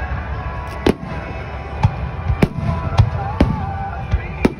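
A fireworks display, with aerial shells bursting in a rapid, uneven series of about six sharp bangs over a continuous low rumble.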